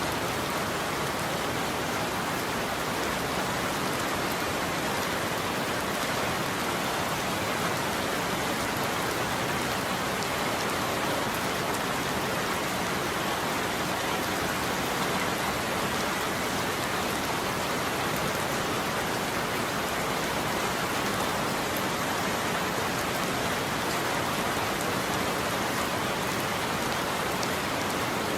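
Steady heavy rain falling, an even hiss with no breaks and no thunder.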